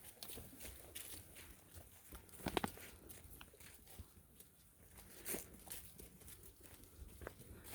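Faint crunching footsteps of a walker and goats on a dry trail, with scattered small clicks and a short cluster of sharper crunches about two and a half seconds in.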